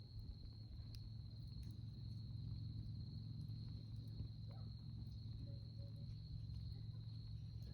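A cricket's unbroken high-pitched trill over a steady low hum, with a few faint clicks.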